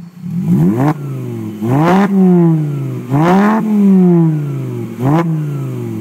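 Volkswagen Jetta 2.5 inline five-cylinder engine breathing through an AWE cat-back exhaust, blipped four times from idle. Each rev rises sharply and falls back toward idle.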